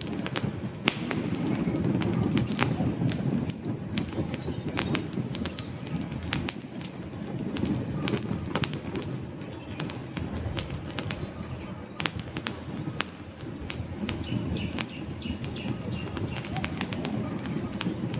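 Wood campfire burning, with frequent sharp crackles and pops from the logs over a steady low rumble of flames.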